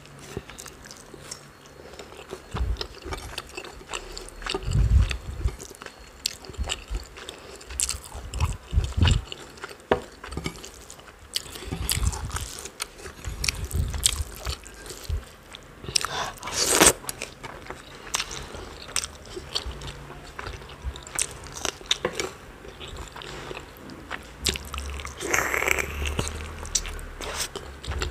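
Close-up mouth sounds of a person eating chicken curry and rice by hand: irregular wet chewing, smacks and clicks, with a few louder bursts.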